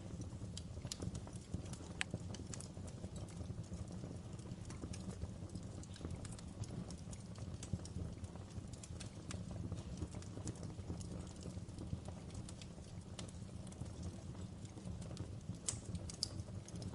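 Wood fire crackling in a fireplace: irregular sharp pops and clicks over a steady low rumble of burning.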